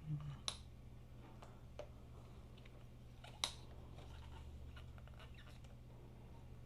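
A few light clicks and taps from tools and motorcycle parts being handled, with two sharper clicks, over a steady low hum.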